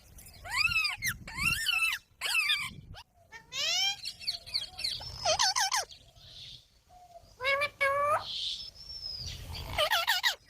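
Indian ringneck parakeets calling: a string of short, arching calls and chirps, with a rising whistle about three and a half seconds in.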